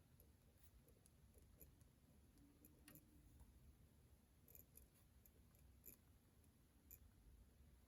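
Near silence: quiet room tone with a few faint, scattered clicks from desk handling.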